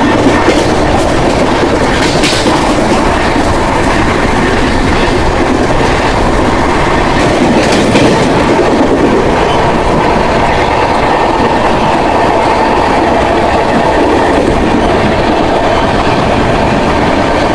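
Rajdhani Express coaches running along the line, heard from the coach doorway: a steady rumble of wheels on rails with clickety-clack over the rail joints.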